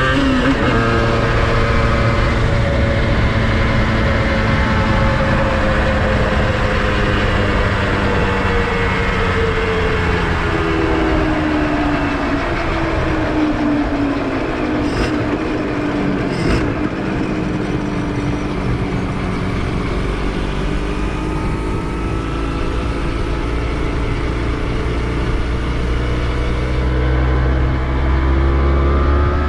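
Honda NSR250R MC28's two-stroke V-twin engine running while the bike is ridden. Its note drops sharply at the start, sinks slowly through the middle, then climbs again, with a heavier low rumble near the end.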